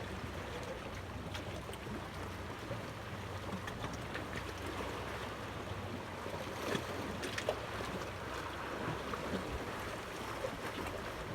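Water lapping with wind buffeting the microphone, with a steady low rumble and a few faint knocks about two thirds of the way through.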